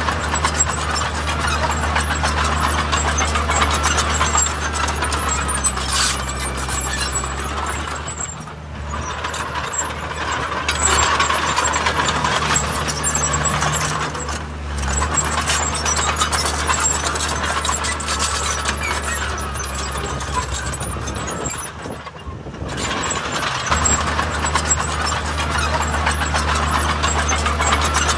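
Heavy diesel earthmoving machinery working: a steady low engine drone under a constant metallic clatter, dipping briefly a couple of times.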